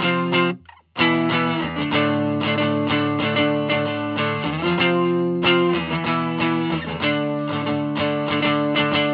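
Electric guitar, a G&L Legacy USA, played through a Hiwatt Custom 20 2x10 combo amp: a run of sustained chords and single notes, briefly cut off to silence about half a second in before playing resumes.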